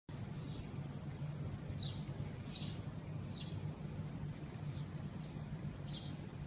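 Small birds chirping: short high chirps, some falling in pitch, about one or two a second, over a steady low hum.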